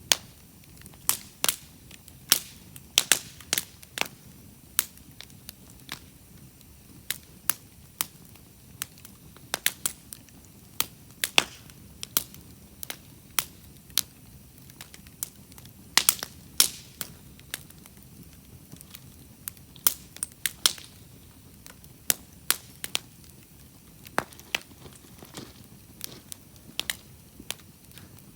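Wood campfire crackling, with sharp pops at irregular intervals, about one or two a second, bunching up in places, over a faint steady low rush.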